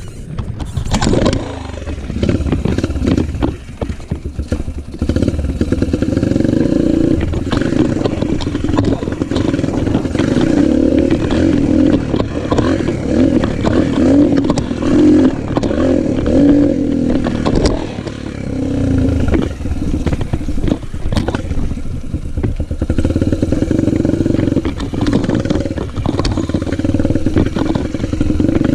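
Yamaha motocross bike's engine running under throttle, its level rising and falling with brief dips, with many short clicks and rattles over it.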